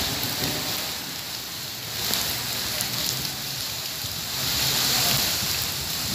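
Steady rain falling, a continuous hiss that swells slightly past the middle.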